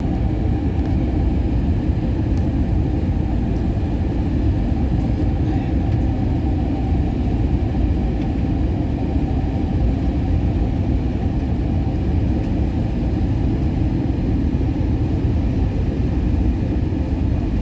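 Steady cabin drone of an airliner in flight, made by the engines and the airflow, deep and unbroken.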